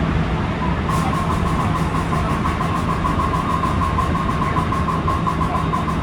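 Rapid, even clacking under the floor of a JR West 223 series 1000 electric train car, about six knocks a second, starting about a second in over the car's steady running hum. The uploader takes it for the air compressor and suspects it comes from air filling at a different rate when coupled to 225 series cars, but the cause is unknown.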